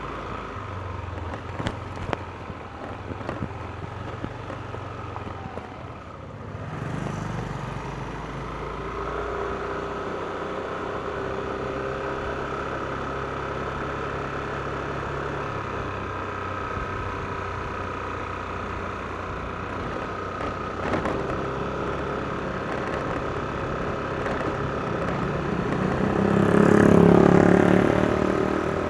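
Yamaha NMAX scooter's single-cylinder engine riding along, quieter with a few clicks for the first six seconds, then picking up and holding a steady drone. The sound swells to its loudest a little before the end.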